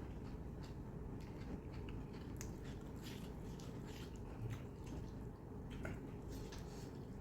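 A person chewing and biting mutton curry and soaked roti close to the microphone: small wet mouth clicks and smacks at irregular intervals over a low steady hum.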